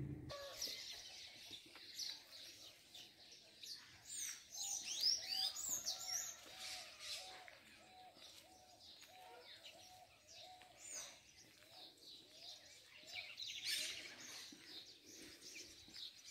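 Wild birds chirping and calling, faint. Quick high chirps and whistles cluster in the first half, and a lower call repeats about twice a second for several seconds through the middle.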